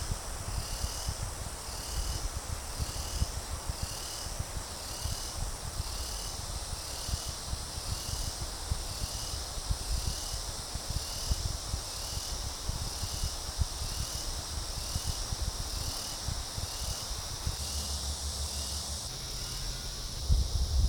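Insects calling in a steady outdoor chorus, with one chirp repeating about once a second over a continuous high hiss. A low rumble runs underneath, and a brief low bump comes near the end.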